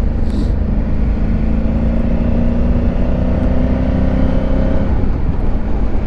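Honda Africa Twin parallel-twin motorcycle on the move, heard through a helmet microphone under heavy low wind and road rumble. The engine note rises slowly for a few seconds, then drops away about five seconds in.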